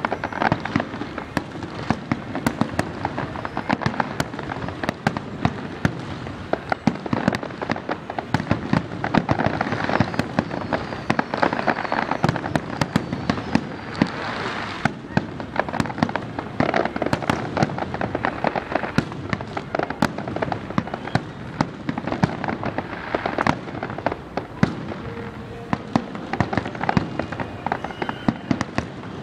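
Aerial fireworks display: shells bursting in a rapid, near-continuous barrage of booms and crackles, many reports a second, heaviest in the middle stretch.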